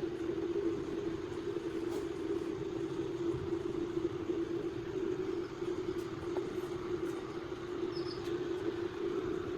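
Hand-held electric wood router running steadily, a continuous hum with no breaks.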